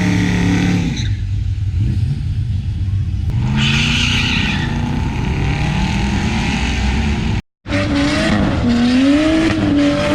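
Drag-racing car engines revving, their pitch rising and falling, with a stretch of hissing tyre noise about four seconds in. A brief dropout comes about seven and a half seconds in, then another engine revs up and down.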